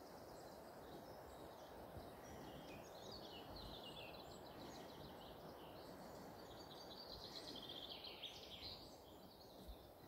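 Faint birdsong: rapid high-pitched trills and chirps, densest in the second half, over a steady low background hiss.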